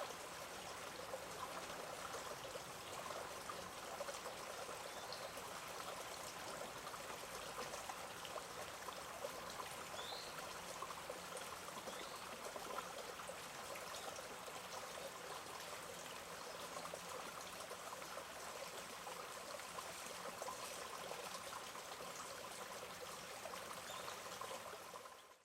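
Shallow flowing water in a park stream, a steady trickling rush, with a few faint high chirps now and then; it cuts off sharply at the very end.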